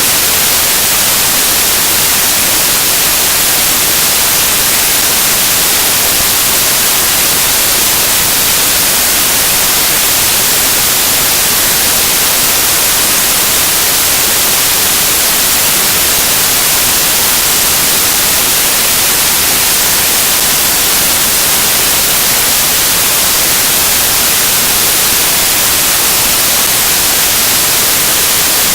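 Loud, steady static hiss like white noise, unchanging throughout, strongest in the high frequencies, covering the audio track.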